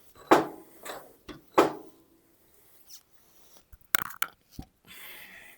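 Metal parts of a fork tool being handled on a bench: two loud clanks in the first two seconds, a few sharp clicks about four seconds in, and a short scrape near the end.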